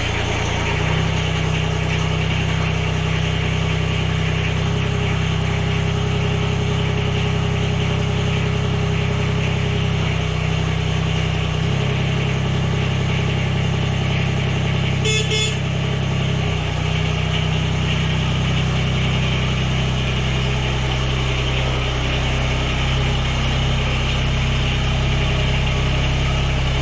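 Tractor engine running steadily at a fixed speed, warming up, with one brief click about fifteen seconds in.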